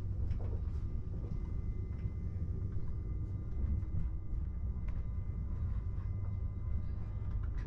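Interior running noise of an ICE 3M high-speed train, heard inside the passenger cabin: a steady low rumble from the train moving along the track, with a faint steady whine and a few faint clicks.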